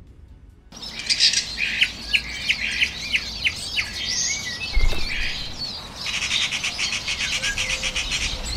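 Songbirds chirping, starting about a second in: a run of quick, sharp repeated chirps, then a fast trill of evenly spaced notes in the second half. A single low thump comes about five seconds in.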